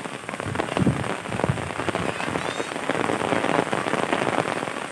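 Heavy rain falling and pattering on surfaces: a dense, steady hiss of many drops.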